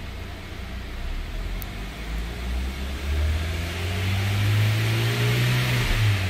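2014 Hyundai Veloster's 1.6-litre four-cylinder engine, heard from inside the cabin, idling and then revved in park, rising from about three seconds in to roughly 3,500 rpm and dropping back near the end.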